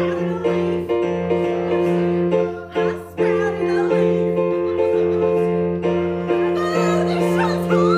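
Piano-sound keyboard playing repeated chords, struck in a quick pattern at first and then held and changed every second or so.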